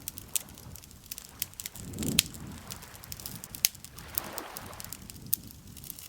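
Campfire crackling, with irregular sharp pops of burning wood throughout; the loudest pops come about two seconds in and again a little after three and a half seconds. Soft swells of low rushing noise sit underneath.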